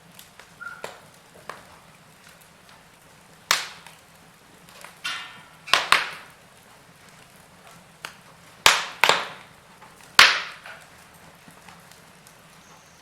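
Wood fire crackling in a fireplace: burning logs give irregular sharp pops and snaps over a faint steady background, the loudest pop about ten seconds in.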